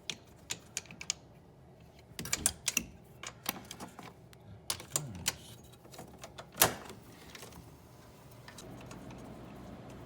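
Irregular metal clicks and taps of a wrench working on the bolts of a car's wiper linkage, with one louder knock about two-thirds of the way through. The clicking dies away near the end, leaving a faint hum.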